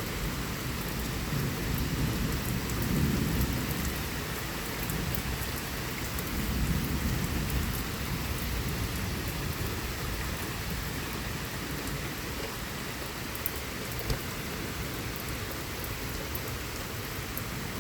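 Steady heavy rain pouring down in a thunderstorm, with low rolling rumbles of thunder swelling twice in the first half. A single sharp tick comes near the middle.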